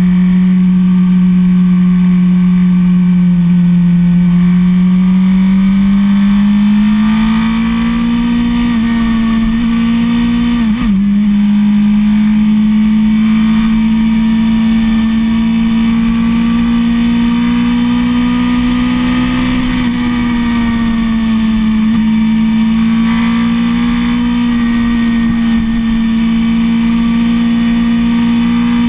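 Suzuki GSX-R sport bike's inline-four engine running at a steady high cruising speed. Its pitch climbs a little about six seconds in, with a brief dip near eleven seconds and a slight easing around twenty seconds.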